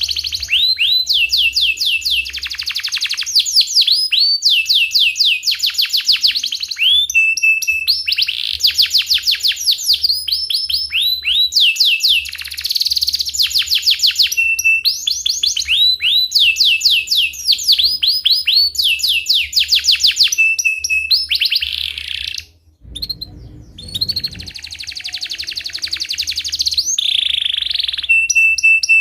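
Domestic canary singing without a break: phrase after phrase of rolling trills, each a fast run of falling whistled notes, some ending in a short held note. About two-thirds through, the song stops for a moment and a short low rumble is heard.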